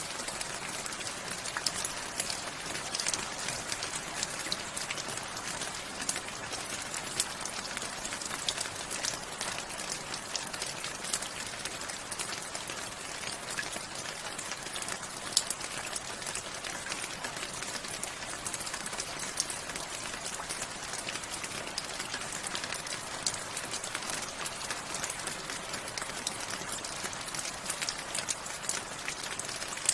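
Steady rain falling, with many individual raindrops ticking sharply against a surface over a constant hiss.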